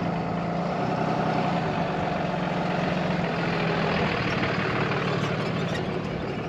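A truck running steadily, a constant engine hum under a broad rushing noise of road and wind.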